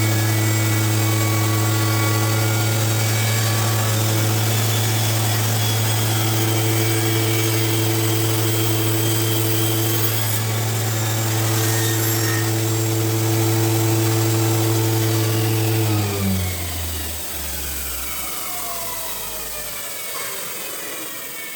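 Table saw motor and blade running steadily, then switched off about sixteen seconds in and spinning down with a falling whine.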